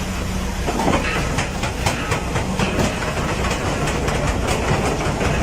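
Steady heavy rumble of a large vehicle running, with a rapid, irregular clatter throughout.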